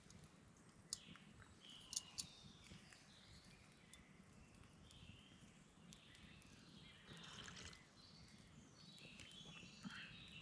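Quiet woodland ambience with faint, scattered bird calls and a few sharp clicks about a second and two seconds in.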